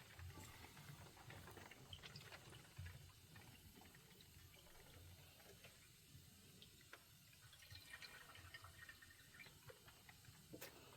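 Near silence with faint water dripping: scattered small ticks over a low rumble.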